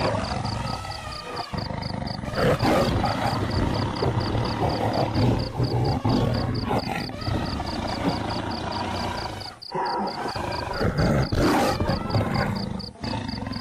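Lions roaring, loud and uneven, with abrupt breaks in the sound about a second and a half in, near ten seconds and near thirteen seconds.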